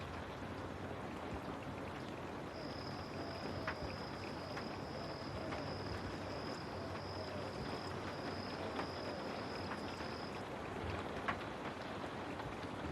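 Steady rain hiss with scattered raindrops tapping sharply. A thin, high, steady tone joins about two seconds in and stops near the ten-second mark.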